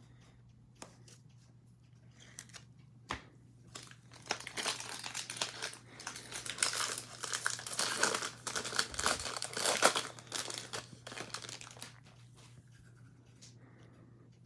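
Foil wrapper of a Topps baseball card pack being torn open and crinkled, a few light clicks first and then several seconds of dense crackling that dies away near the end.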